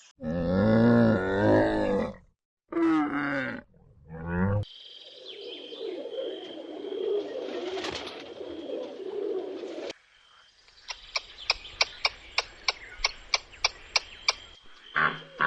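A series of different animal calls: three deep, wavering calls in the first few seconds, then a stretch of noisy calling over a steady high whine, then a run of quick sharp chirps at about five a second.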